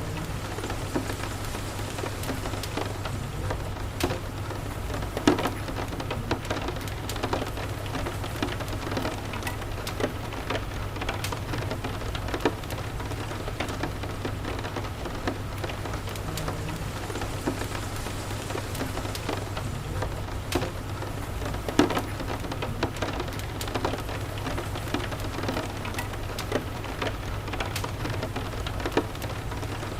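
Steady rain mixed with a crackling wood fire: scattered sharp pops throughout, two louder ones about five seconds in and about two-thirds of the way through, over a low steady hum.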